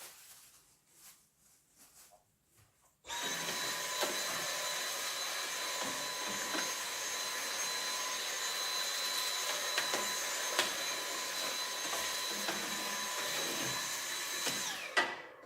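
Dyson vacuum cleaner picking up fine ash dust. It is switched on about three seconds in, runs steadily with a high whine, and is switched off near the end, its pitch falling as the motor winds down.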